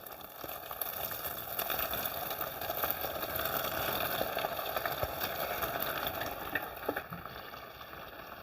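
Breadcrumb-coated, fish-stuffed snake gourd pieces frying in hot oil: a sizzle that builds about half a second in, holds, then dies down near the end.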